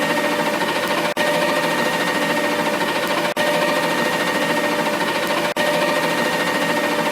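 A machine running steadily with a fast, even rattle and a steady hum. The sound drops out briefly three times, about every two seconds.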